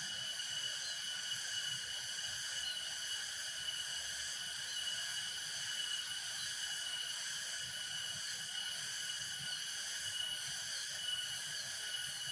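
Steady insect chorus: a continuous high-pitched drone on several pitches at once, with faint short chirps now and then.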